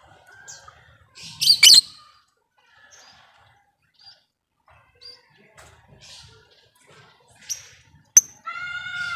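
Lovebirds calling in scattered short chirps, with one loud harsh screech about a second and a half in and a pitched call starting near the end.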